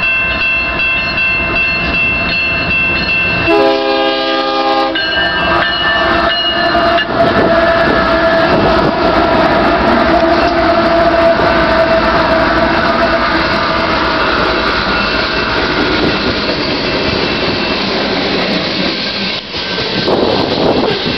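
A BNSF coal train's air horn sounds a chord for the first several seconds, with a louder blast a few seconds in. Its diesel locomotives then pass close by, engines and wheels rumbling, and loaded coal cars roll past on the rails after them.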